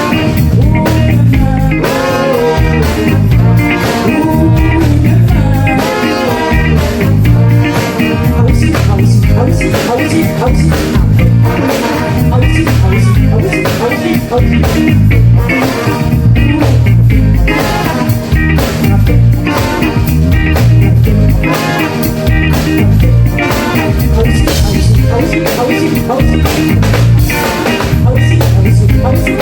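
A live band playing a song through the stage sound system at a sound check, with a singer, guitar and a strong pulsing bass beat.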